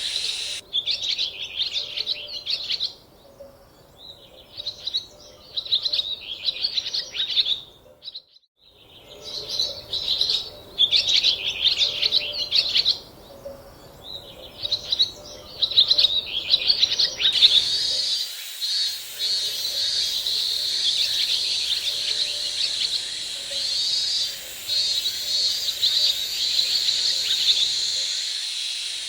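Small birds chirping and twittering in repeated bursts of a second or two, with short gaps between them. The sound drops out briefly about a quarter of the way in. From a little past halfway, a steady high hiss runs under the chirps.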